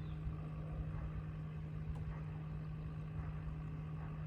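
Boat motor running steadily: a constant even hum over a low rumble, with no change in speed.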